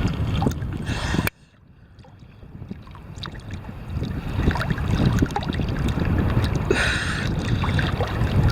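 Choppy ocean water splashing and wind buffeting the microphone of a swimmer's camera. About a second in the sound drops away suddenly to near quiet, then builds back up over the next few seconds, with a brief louder splash near the end.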